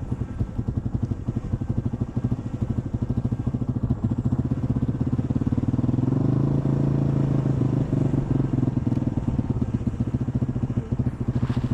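Yamaha XT225 dirt bike's single-cylinder four-stroke engine running with a rapid, even putter. Its pitch rises about five seconds in and then holds steady at higher revs.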